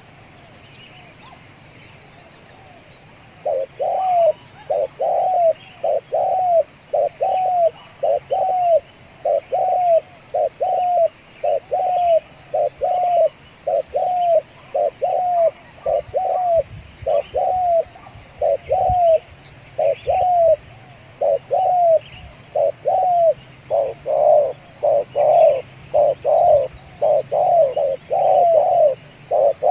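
Spotted dove cooing: a long, unbroken run of short, low coo notes, about one and a half a second, starting about three and a half seconds in and getting louder near the end. Faint chirps of small birds and a steady high hiss sit behind it.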